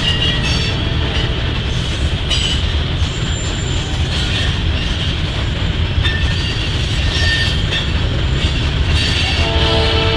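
Freight train rolling past: a steady rumble of wheels on rail with scattered high wheel squeals. About nine and a half seconds in, a locomotive's chord air horn begins to sound.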